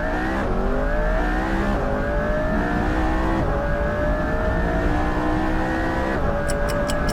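McLaren P1's twin-turbo V8 accelerating at full throttle from a launch-control start, its pitch climbing and dipping briefly at four upshifts. A few quick ticks near the end.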